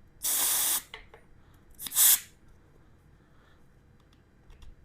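Two short hisses of air let out of a freshly mounted motorcycle tire's valve stem: about half a second of hiss, then a shorter, louder one about two seconds in, bleeding the pressure down from 43 toward 42 psi.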